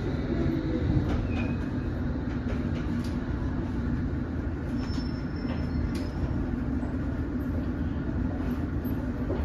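London Underground S stock train running, heard from inside the carriage: a steady low rumble with a few faint clicks.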